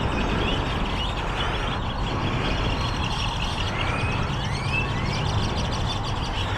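Motorcycle engine idling with a steady low hum, under a haze of traffic noise, while birds chirp in short rising calls.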